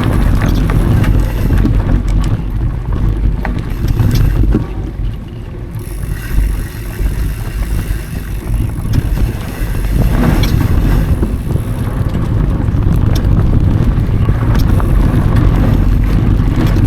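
Wind rushing over an action camera's microphone and mountain bike tyres rolling over dry dirt singletrack, with scattered clicks and rattles from the bike. The noise eases for a second or two about four and a half seconds in.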